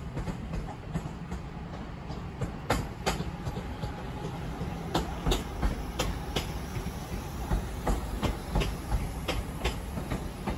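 A Northern passenger train rolling slowly through the station over a low rumble. Its wheels clack over rail joints and pointwork in an uneven run of sharp clicks.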